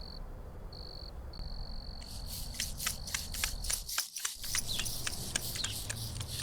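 Field crickets trilling in a steady high tone broken by short gaps. About two seconds in, a rapid run of short, high bird chirps takes over.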